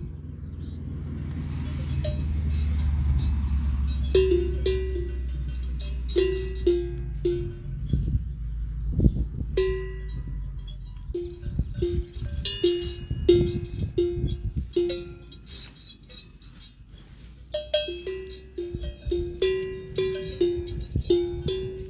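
Cowbells on cows clanking irregularly, some strikes close together and some spaced out, each with a short ringing tone. A low rumble lies under the first several seconds.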